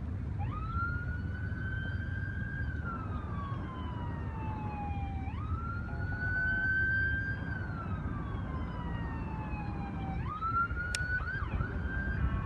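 Siren wailing in three slow cycles, each rising quickly, holding, then falling slowly over about five seconds. A steady low rumble runs beneath it, and there is a single sharp click near the end.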